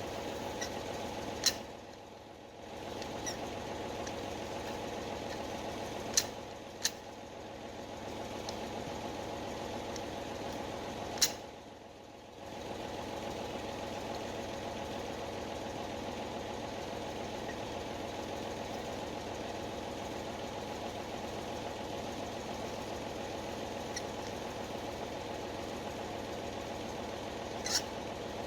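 Tractor engine idling steadily, with a handful of sharp clicks spread through.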